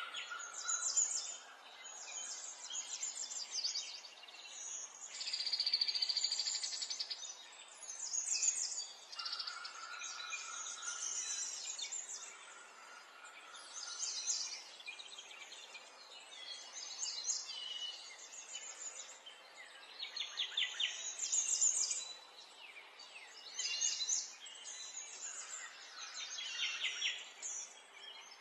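Birds chirping and singing: repeated short trills and whistled notes over a faint steady hiss.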